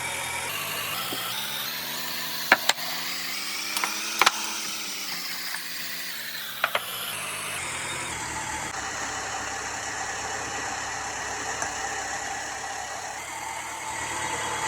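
Volkswagen Polo engine running with its compressor: revved once, rising in pitch over about three seconds and falling back, with a few sharp clicks near the peak, then settling to a steady idle.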